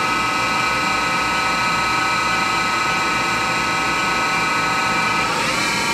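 Spindle of a 1996 Haas VF0 vertical machining center running with a steady whine of several tones, its pitch rising near the end as it speeds up to 3,000 RPM.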